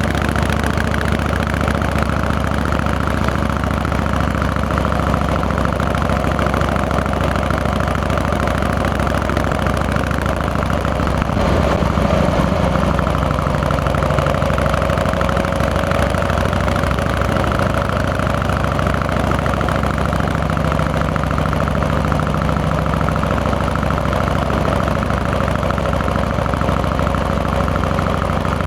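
Harley-Davidson Fat Boy's Twin Cam 88 V-twin engine running steadily on the move, with a brief dip and recovery in engine pitch about twelve seconds in.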